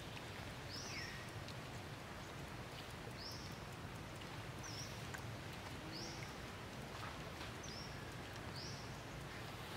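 A bird calling in the background, short high chirps repeated roughly once a second, over a steady outdoor hiss.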